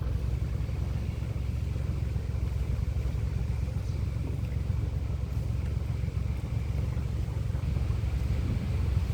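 A boat's motor running steadily, a low even rumble.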